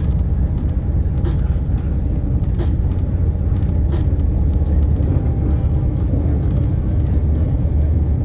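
Passenger train running: a steady, loud low rumble, with faint clicks at a regular spacing of a little over a second.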